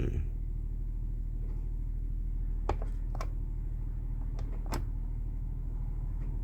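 Steady low hum of a running diesel generator, with a few short sharp clicks in the middle, like buttons being pressed on a control panel.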